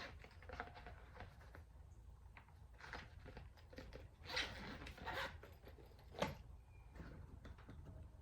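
Faint handling noises of hand tools being taken out of a tool bag: scattered light clicks, a rustling scrape a little after four seconds, and a sharp click about six seconds in.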